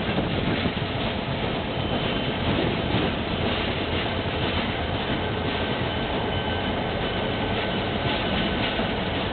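Diesel-hauled passenger train running along the track, heard from on board: a steady rumble of wheels and running gear, with a faint high squeal coming and going.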